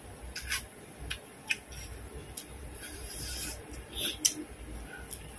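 Close-up eating sounds: chewing and gnawing grilled meat off a small bone, with scattered sharp mouth clicks and smacks. There is a brief rasping scrape a little past halfway and a sharp click about four seconds in.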